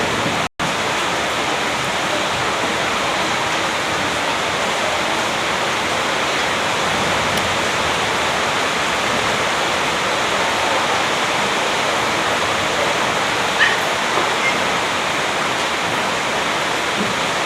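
Steady rushing noise, even and unbroken, that cuts out for an instant just after the start; a couple of faint clicks come about three-quarters of the way through.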